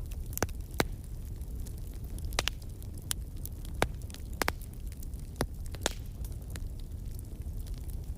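Wood fire crackling in a fireplace: irregular sharp pops and snaps, some clustered in pairs, over a steady low rumble of the burning fire.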